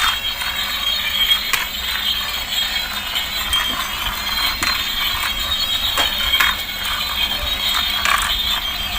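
Battery-powered toy fire truck running, its small gear motor and plastic gears giving a steady whir with scattered clicks and rattles.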